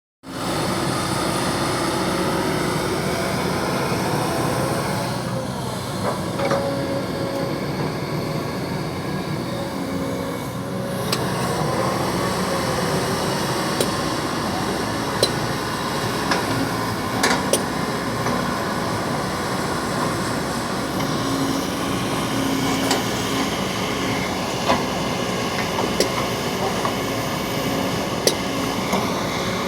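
Kobelco SK200 excavator's diesel engine running steadily under load, its pitch shifting a little, with a sharp metallic clank now and then, about a dozen in all.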